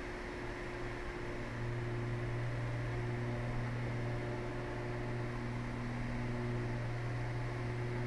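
The twin piston engines of a Cessna 320 droning steadily in flight, heard inside the cabin as a low hum with a few steady tones over it; the drone gets slightly louder about a second and a half in.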